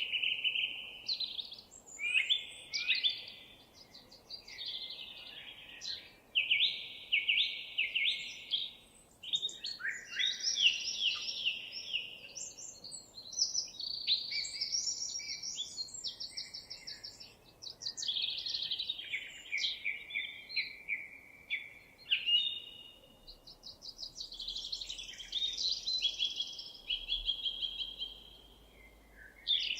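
Songbirds singing: one phrase after another, each a second or two long, of rapid trills, chirps and buzzy notes, with short pauses between phrases.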